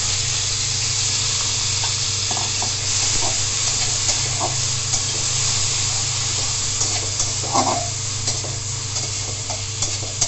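Chopped onion and green chilli sizzling in hot soybean oil in a metal wok, with a metal spatula scraping and tapping the pan now and then as it stirs.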